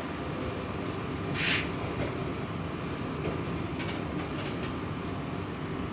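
Steady low rumble of a moving public-transport vehicle heard from inside, with a brief hiss about one and a half seconds in and a few faint clicks.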